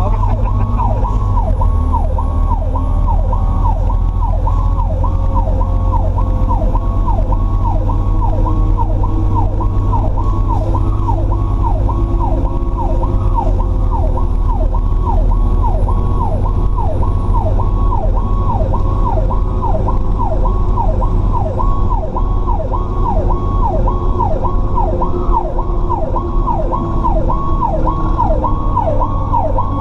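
Fire truck's electronic siren in a fast yelp, sweeping up and down about three times every two seconds, over the low rumble of the truck's engine and road noise heard from inside the cab. A second, lower siren tone slides slowly down in pitch underneath.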